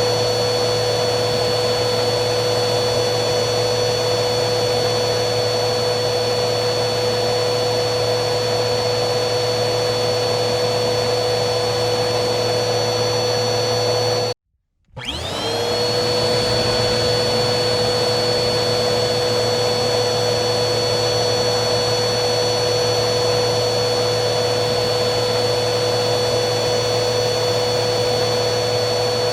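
Vacuum cleaner motor running steadily with a high whine. About halfway through it cuts out for half a second, then starts again, whining up to full speed within about a second.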